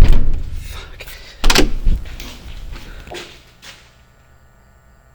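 A door banging: a loud slam at the very start, a second slam about a second and a half in, then two lighter knocks around three seconds in.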